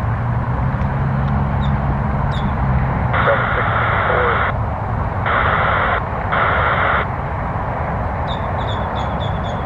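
Air-traffic-control radio: three short hissing transmissions a few seconds in, with a garbled word, over a steady low rumble. Rows of short high chirps come near the start and again near the end.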